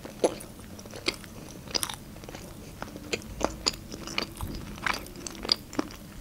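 Close-miked chewing of a mouthful of sushi roll, with sharp, irregular wet mouth clicks.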